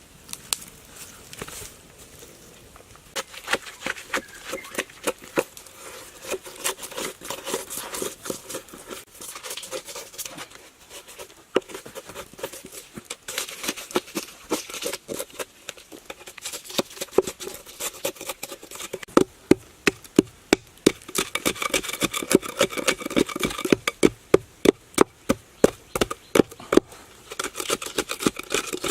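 A long run of sharp knocks and taps at an uneven pace, getting faster and louder in the last third, over a faint buzzing like insects.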